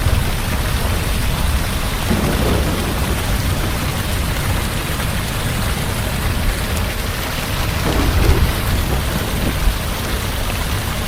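Heavy rain falling steadily over a continuous low rumble of thunder, which swells slightly about eight seconds in.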